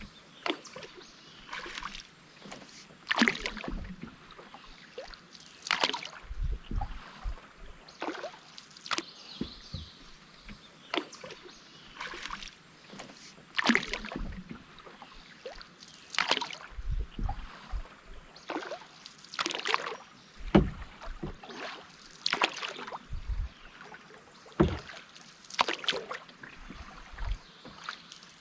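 Canoe paddle strokes: the paddle dips and pulls through the water with a swishing splash about every two and a half to three seconds, with a few low thumps in between.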